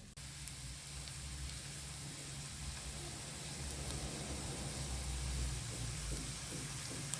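Garlic, onion and ginger sizzling steadily in a little hot cooking oil in a frying pan. The sizzle starts suddenly just after the start, with a light click about half a second in and another near the end.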